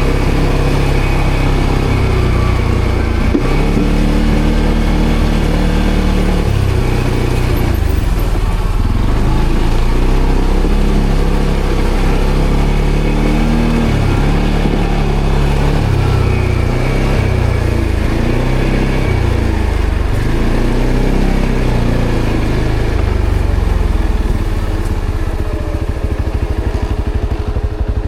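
ATV engine running under changing throttle, its pitch rising and falling again and again. Near the end it drops back to a quieter, slower pulsing run, close to idle.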